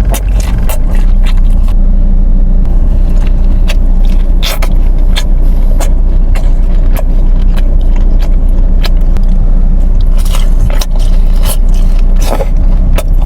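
Close-miked chewing and crunching of fast food: repeated sharp crunches and clicks over a steady low rumble.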